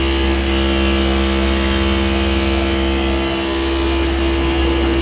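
Yuki YK-1949X industrial sewing machine with walking-foot feed running at a steady speed: a continuous, even machine hum with one constant tone.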